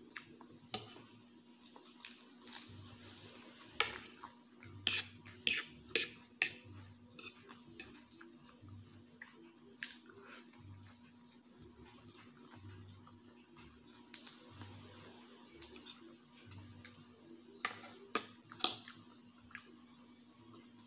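A metal fork clinking and scraping against a plate while instant pancit canton noodles are twirled up, with chewing and mouth sounds of eating the noodles. The clinks come in clusters, thickest about four to seven seconds in and again near the end.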